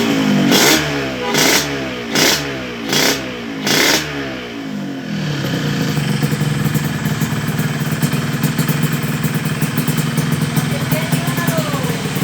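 Yamaha RX-King's 135 cc two-stroke single through a full-stainless 'Lobster' aftermarket exhaust: five quick throttle blips, each rev dropping away, then settling into a steady, crisp idle.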